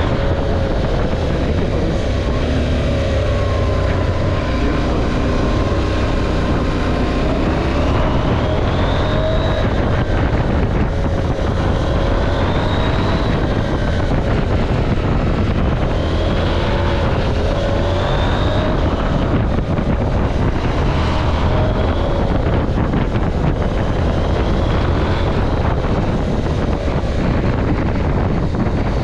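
KTM 790 Adventure's parallel-twin engine pulling the motorcycle along, its note rising and falling again and again as it accelerates and eases off. Wind rumbles on the camera microphone underneath.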